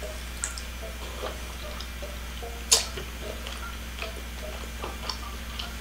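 Close-miked chewing of a chicken wing: small wet clicks and mouth smacks, with one sharper smack about halfway through.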